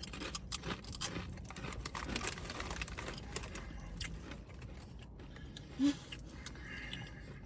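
Crunchy tortilla chips (Doritos) being bitten and chewed close to the microphone: a dense run of crackling crunches that thins out after about four seconds. A short hummed voice sound comes about six seconds in.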